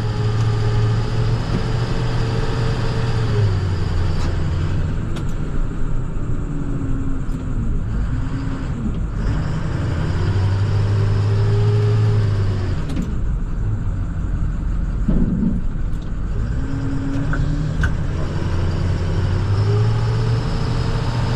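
International TerraStar plow truck's diesel engine running while driving, its pitch rising and falling several times as the truck speeds up and slows, over a steady low rumble.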